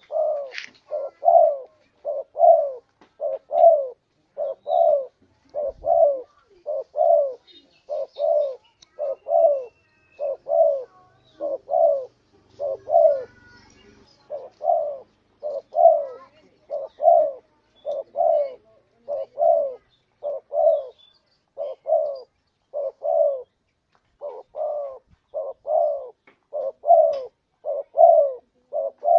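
Spotted dove (tekukur) cooing over and over, short low notes in close pairs about once a second, with a brief pause about halfway through. It is the two-note "kuk dua" call of a contest-bred male, used as a lure to draw wild doves.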